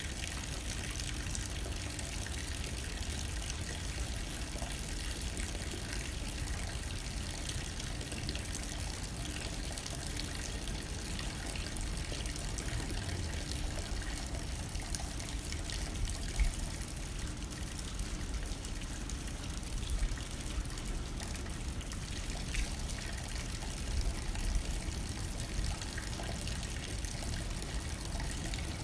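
Steady rain beating on a window pane, with a low rumble of wind underneath and a few louder spatters now and then.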